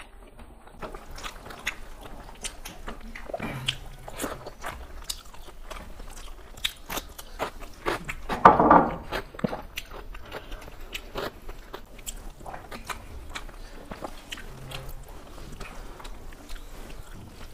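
Close-miked eating of rice and curry by hand: chewing and crunching with many small sharp mouth clicks and smacks. There is one louder burst of noise just past halfway.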